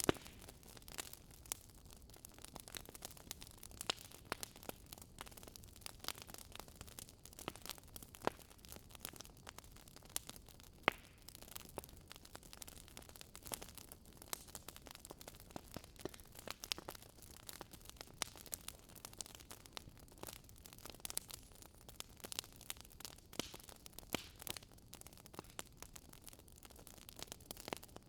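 Wood fire crackling in a fireplace: irregular sharp pops and snaps from the burning logs over a faint steady hiss, with one louder pop about eleven seconds in.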